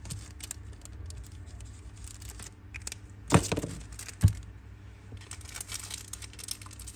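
Zippo lighter being handled: light metal clicks and rattles, then two loud sharp metallic clacks about a second apart, the first ringing briefly, as the hinged lid is flicked open and snapped shut.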